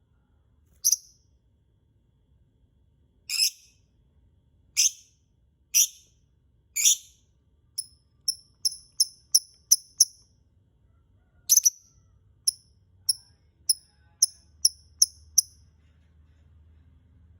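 Lovebird calling: a few harsh, high-pitched shrieks about a second apart, then runs of short, sharp chirps about three a second, broken by one more shriek near the middle. The calls stop about two seconds before the end.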